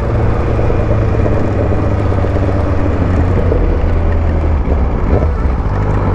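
Motorcycle engine running steadily while riding, with a constant low hum under noise.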